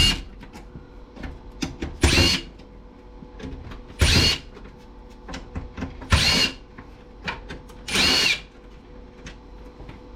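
Cordless power drill/driver backing screws out of a stereo's case in five short bursts about two seconds apart. Each burst is a brief motor whine that rises and falls in pitch, with small clicks of screw and case handling in between.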